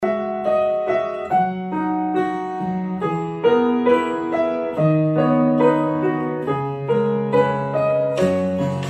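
Slow, gentle piano music, a melody and low notes struck every half second or so. Near the end a soft hiss joins in.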